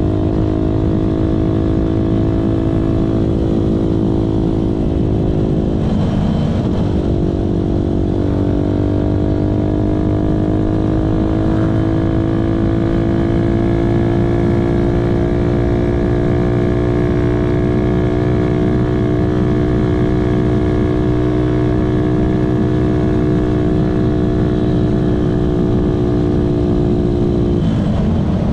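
Benelli motorcycle engine running under way, its note dipping briefly about six seconds in, climbing slowly afterwards, and dropping again near the end, with heavy wind rumble.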